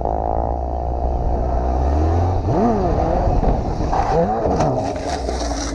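Motorcycle engine running, revved up and back down twice, about two and a half and four seconds in, with a few sharp clicks near the end.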